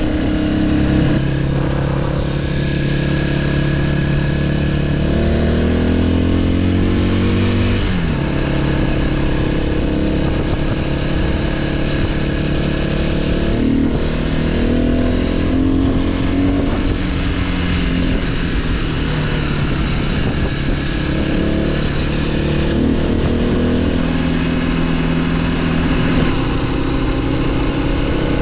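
Motorcycle engine running on the road. Its pitch climbs for a few seconds, then drops suddenly about eight seconds in as a gear is shifted, and moves up and down again later with the throttle. A steady rushing noise runs underneath.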